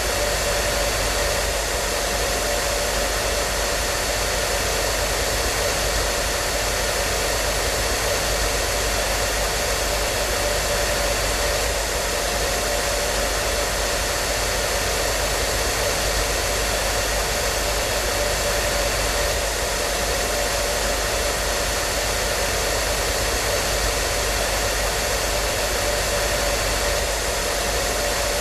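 Hair dryer running steadily: an even rushing of air with a constant motor hum and whine.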